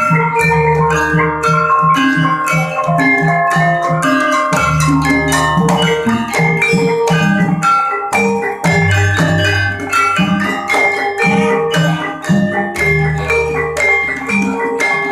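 Javanese gamelan music: bronze metallophones play a busy run of struck, ringing notes over a quick low pulse, while long deep gong tones come in several times.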